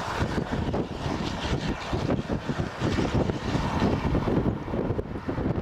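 Gusty wind buffeting the microphone: a low, rushing noise that surges and eases unevenly.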